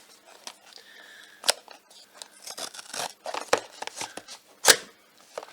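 Blind box packaging being pulled and torn open by hand: rustling and crinkling with scattered clicks and two sharp snaps, the louder one near the end.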